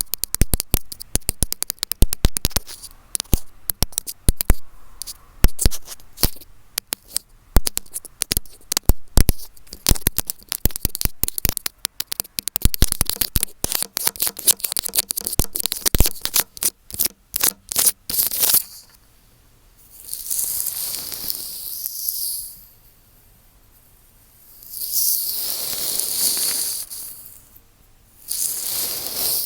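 Earphone microphone handled up close, with rapid, dense tapping, scratching and clicking right on the mic. After about 19 seconds this gives way to three separate hissing swishes, each two or three seconds long, with short pauses between them.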